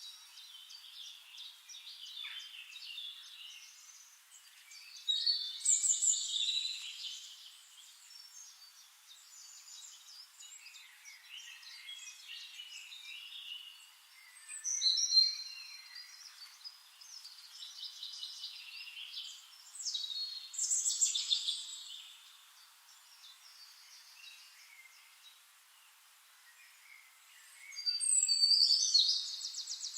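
Several songbirds singing and chirping together in overlapping trills and phrases that swell and fade, loudest around a fifth, half and two-thirds of the way through and again near the end.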